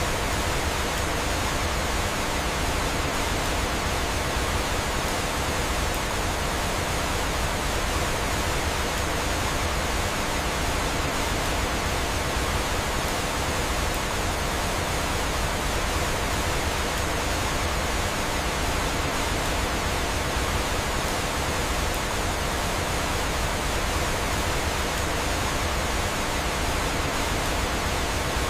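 Steady, even rushing of flowing water from a waterfall, unchanging throughout.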